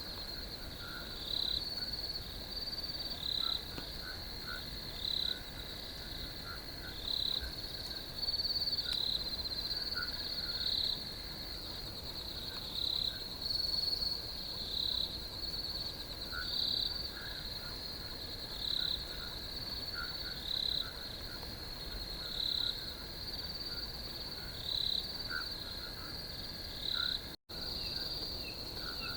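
Crickets chirping in chorus: a steady high trill with louder chirps recurring every second or two, and fainter, lower pips scattered through. The sound cuts out for an instant near the end.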